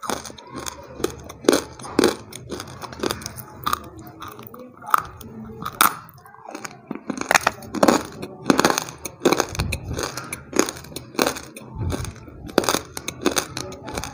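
Close-up biting and chewing of hard, dry grey chunks: irregular sharp crunches, about one every second, with crumbling between them.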